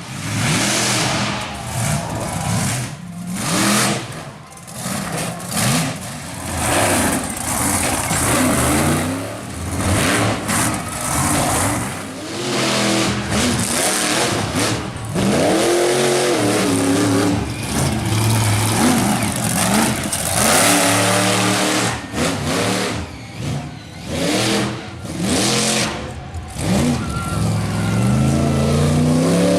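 Monster truck engine revving hard, its pitch climbing and falling again and again as the driver gets on and off the throttle.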